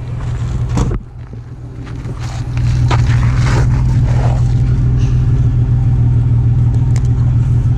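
Holden VS Commodore's engine running steadily, getting louder about two and a half seconds in and then holding, with a few light knocks.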